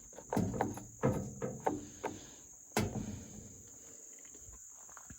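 Steady high chirring of crickets, with a few dull knocks and clunks in the first two seconds and one sharp click a little before the middle.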